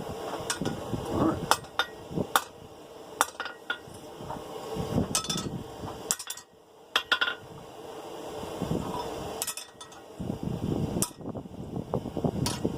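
Hand hammer striking a 1/2-inch round steel bar on the anvil, a dozen or so sharp metallic blows at irregular intervals with short pauses between, as a bent corner of a forged triangle dinner bell is knocked into line. A low, steady rumble runs underneath.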